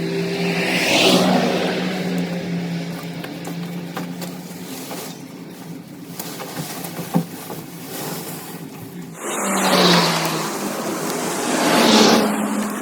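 A motor running with a steady hum, with loud swells of hissing noise about a second in and twice near the end.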